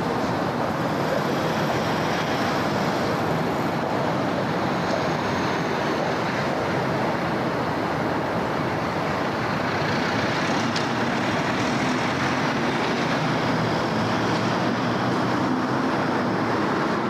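City road traffic: a steady, continuous wash of engine and tyre noise from passing cars and trucks.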